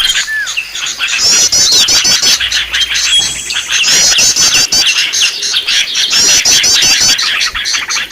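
A busy chorus of small songbirds chirping and twittering, the kind of noisy flock recording played to lure wild small birds. A fast run of high, rising notes breaks in every couple of seconds over the continuous chatter.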